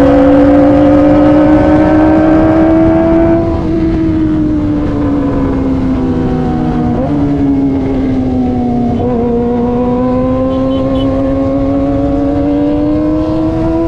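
Kawasaki ZX25R's inline-four engine through an aftermarket racing exhaust, running at high revs under way with a high, steady note. The pitch climbs slowly, eases off about three and a half seconds in, dips briefly near the middle, then builds again toward the end, over a low rumble of wind and road.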